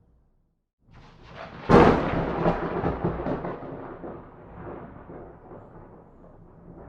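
Thunderclap: after a moment of silence a low rumble builds, breaks into one sharp crack a little under two seconds in, then rolls on and slowly fades.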